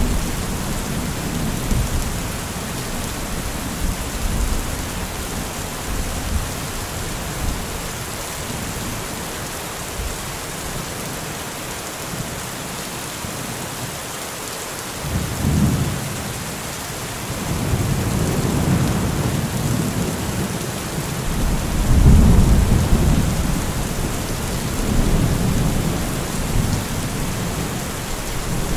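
Heavy rain falling steadily, with low rolling thunder rumbles that fade out for a stretch in the middle and swell back in several times in the second half.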